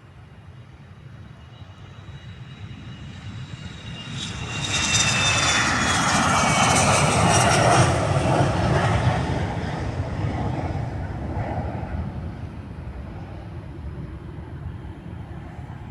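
Private jet's turbofan engines on its takeoff run, growing louder as it approaches and passing loudest about five seconds in, with a high whine that drops in pitch as it goes by, then fading as it moves away.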